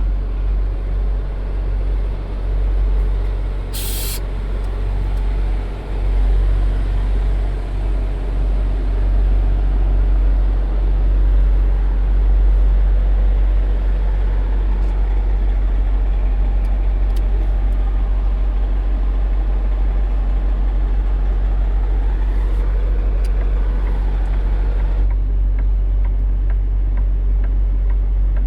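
Semi truck's diesel engine running steadily at low speed while maneuvering, with a short, sharp air-brake hiss about four seconds in.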